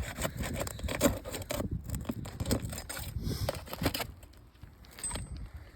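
Tool working under asphalt roof shingles: rapid scraping and clicking as nails are pried out along the nail line, busy for about four seconds, then easing off.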